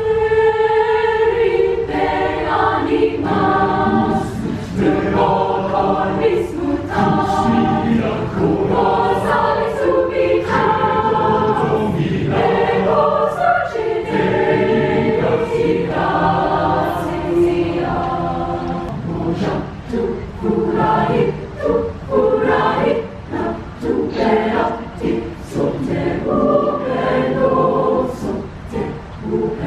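A choir singing, many voices holding sustained notes phrase after phrase.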